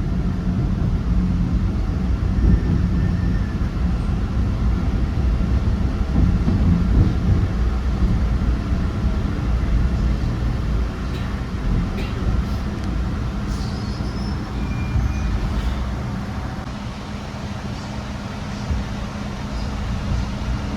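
MBTA Red Line subway train running at speed, heard from inside the car: a steady low rumble of wheels on rails, with a few faint clicks and a slight easing about three-quarters of the way through.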